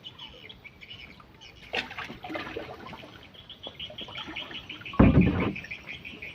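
Birds chirping steadily in quick repeated notes, with a loud, brief noise about five seconds in.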